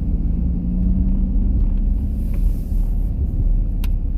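Pickup truck driving, a steady low engine and road rumble, with one short click near the end.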